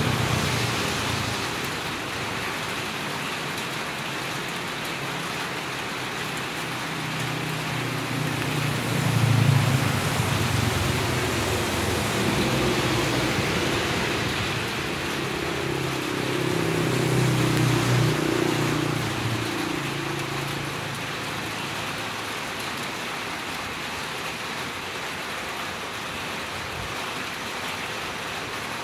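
Steady rain falling on a wet village road, with vehicles driving past on the wet street, the loudest about nine seconds in and again around eighteen seconds.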